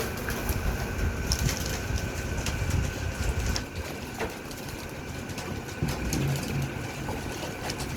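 Homing pigeons bathing in a shallow water tray: irregular splashing and wing flutters, with a few low pigeon coos about six seconds in.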